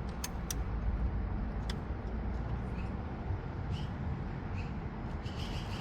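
Steady low rumble with a few sharp clicks in the first two seconds: hand tools handled while working the broken coolant fan sensor out.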